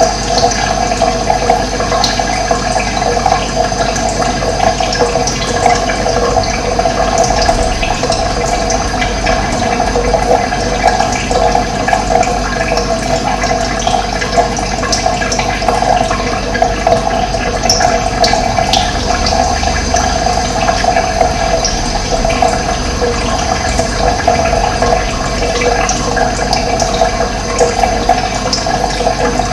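Running water rushing steadily, as of a flowing stream, with a few short high bird chirps over it.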